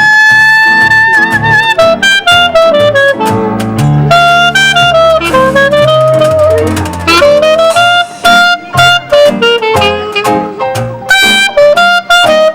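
A New Orleans-style jazz band playing live: a saxophone or brass lead holds a note with vibrato, then runs through quick phrases over a walking bass line. Washboard and keyboard keep the rhythm with steady sharp ticks.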